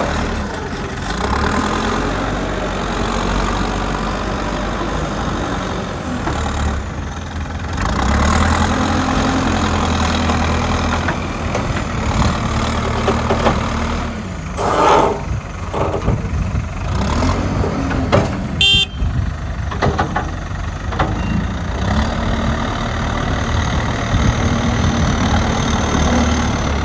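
Heavy diesel machinery engine running, its revs rising and falling as it works, with a brief high-pitched tone about two-thirds of the way through.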